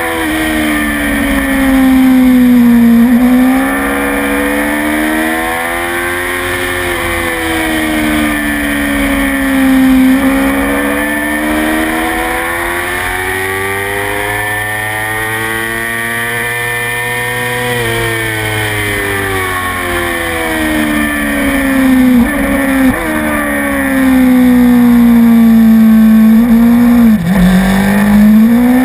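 Motorcycle engine running hard on a race track, its pitch rising and falling several times as it accelerates and eases off through the corners. Near the end there is a quick dip in pitch before it climbs sharply again.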